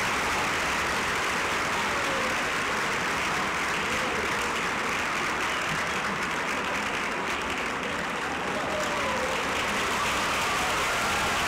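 Audience applauding steadily, with a few voices heard through the clapping.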